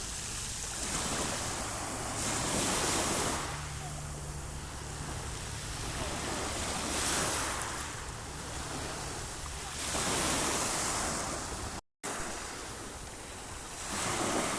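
Sea waves breaking and washing back, swelling and fading every few seconds over a low wind rumble. The sound cuts out for an instant near the end.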